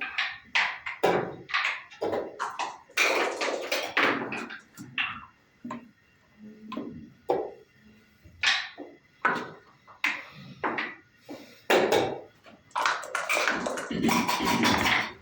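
Backgammon play: dice rattling and bouncing and wooden checkers clacking on the board, a quick string of sharp clicks and knocks with two denser rattling runs.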